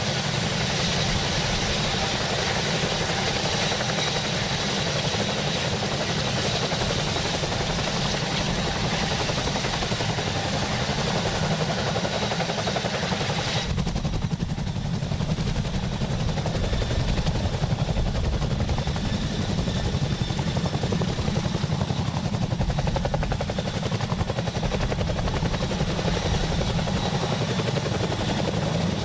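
CH-47 Chinook tandem-rotor helicopter with GE T408 turboshaft engines running: a rapid, steady rotor chop under a high turbine whine. About halfway through the high whine and hiss drop away abruptly and the low rotor chop comes forward.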